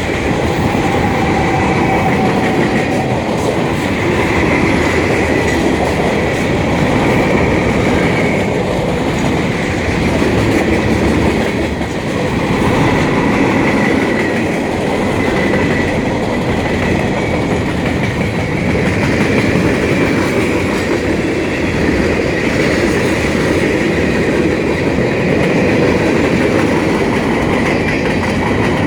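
Freight train cars rolling past at track level: a steady rumble and clatter of wheels on rail, with a high wavering tone over it.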